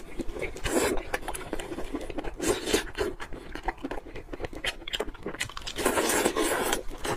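Close-up eating sounds of steamed chicken: wet chewing and many small mouth clicks, with rustling of plastic-gloved fingers pulling the meat apart.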